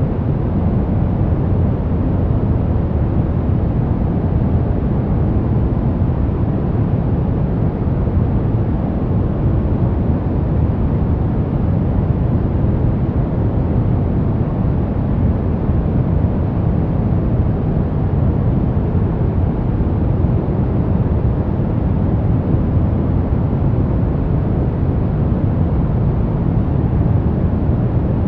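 Steady, unchanging noise from a sleep and relaxation track, a deep, even rush heaviest in the bass and thinning toward the treble, more like brown noise than flat white noise.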